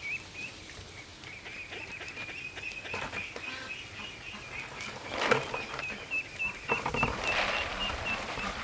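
A high-pitched chirping call that repeats throughout and turns into quick separate chirps near the end, with a few short clicks and rustles about five and seven seconds in.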